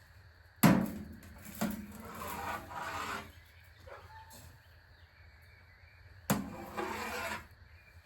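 Dry chicken feed being poured into a feeder twice: each pour starts with a sharp hit, then a rasping rush of pellets. The first pour lasts a couple of seconds; the second, near the end, lasts about a second.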